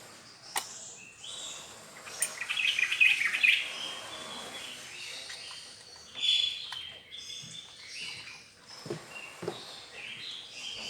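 Small birds chirping in a cluster of quick calls, with a sharp click early on and two low knocks near the end.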